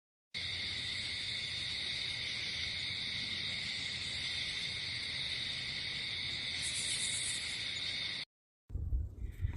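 A steady, high-pitched insect chorus, holding several even tones without a break, which starts and cuts off abruptly.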